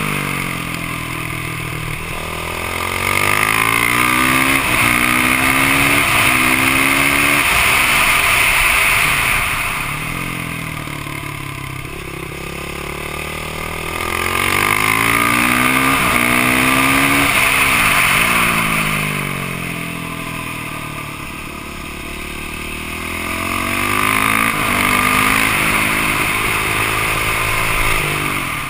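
Yamaha YZ450F single-cylinder four-stroke dirt bike engine at full throttle, pitch climbing and dropping back at each upshift, then backing off for the corners. This happens three times over.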